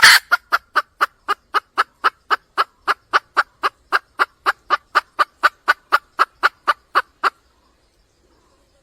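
Junglefowl hen calling for a male: a rapid, even run of short clucks, about four a second, the first one loudest, stopping about seven seconds in.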